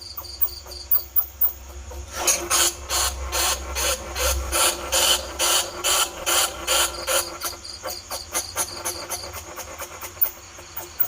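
Bandicoot rat calls used as a trapping lure: a long run of hissy, rhythmic squeaks, several a second, louder in the middle and trailing off into fainter, thinner chirps near the end.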